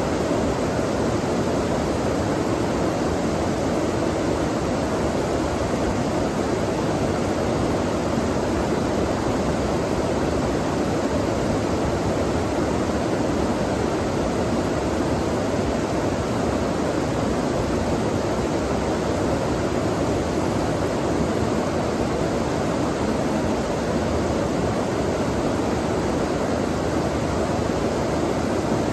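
Running water rushing steadily, an even, unbroken sound.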